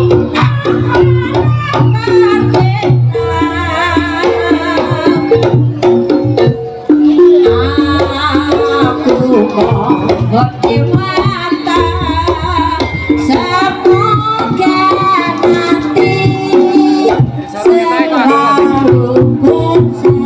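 Live jaranan music: Javanese hand drums playing a busy rhythm under repeating pitched gong and metallophone notes, with a wavering melody line over the top.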